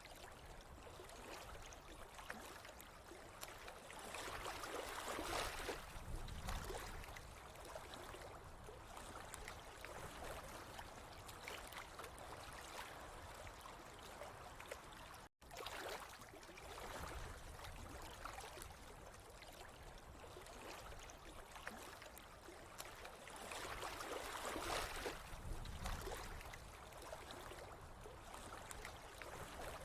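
Water trickling and gurgling steadily and faintly, swelling a little twice; the sound cuts out for an instant about halfway through.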